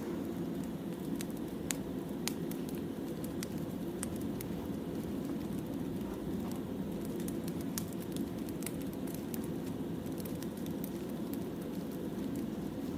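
Burning firewood: a steady low rush with irregular sharp crackles and pops from the burning logs.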